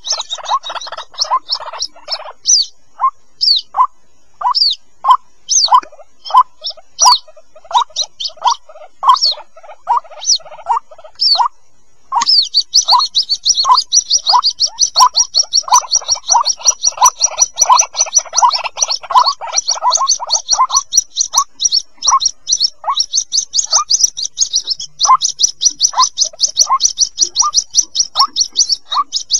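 White-breasted waterhen chicks calling: short falling peeps repeated about twice a second, high and lower pitched together, joined about twelve seconds in by a fast, unbroken run of high chirps that continues on. These are the chick calls used as a lure to draw adult waterhens.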